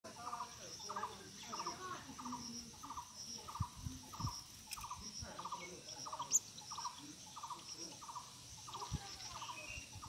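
A bird repeating a short, rattly call about twice a second, over a steady high insect trill, with one sharp high chirp about six seconds in.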